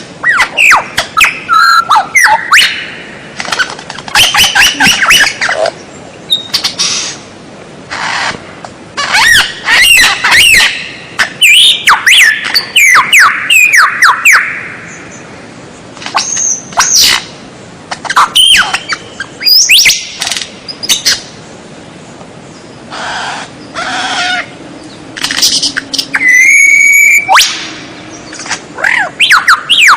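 White-rumped shama (murai batu) singing: loud, varied phrases of whistled glides, rapid trills and sharp chips, each lasting one to a few seconds, with short pauses between them.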